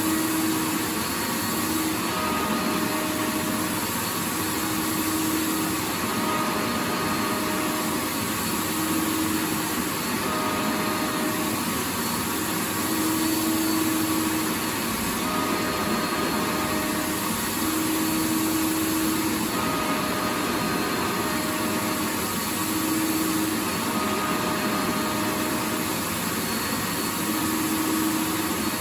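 Vacuum cleaner running steadily: a continuous rushing noise with a faint motor hum that comes and goes every second or two.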